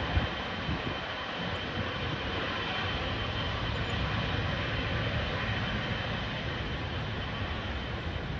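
Boeing 777 jet engines running at takeoff power, a steady jet noise with a low rumble, and a brief low thump just after the start.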